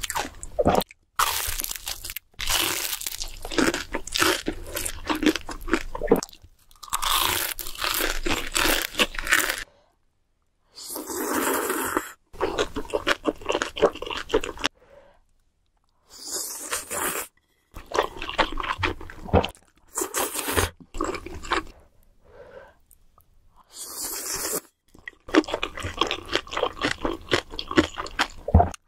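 Close-miked crunching and chewing of deep-fried dumplings, bite after bite, broken by a few brief silent gaps.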